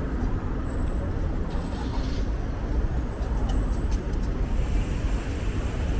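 Steady low rumble of wind and road noise heard from a moving bicycle, with city traffic around it.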